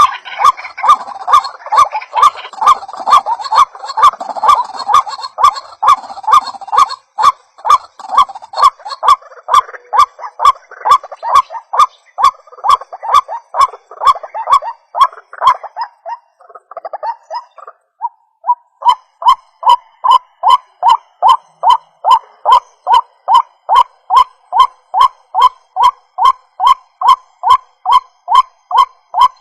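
White-breasted waterhen (ruak-ruak) lure calls: a rapid, even series of harsh notes, two or three a second. They are layered with other overlapping calls for the first several seconds, break off briefly about two-thirds of the way through, then resume.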